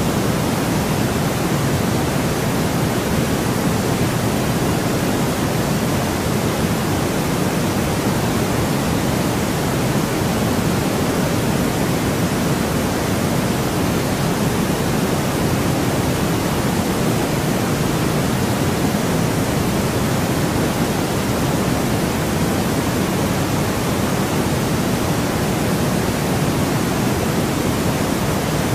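Steady, unchanging white noise from a sleep-aid noise track: an even hiss with no events, weighted a little toward the lower middle rather than the treble.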